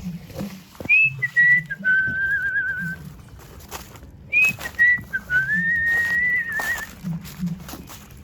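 A person whistling a short tune in two phrases. Each phrase starts on a high note and drops to a long held note, the first held note wavering. Light clicks and knocks are heard alongside.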